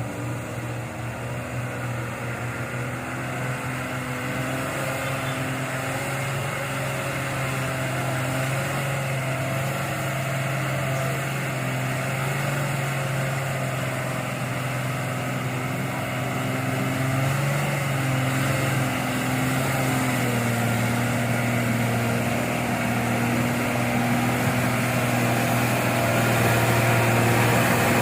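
A heavy truck's diesel engine running steadily under load, its pitch wavering slightly, growing louder toward the end as it draws closer.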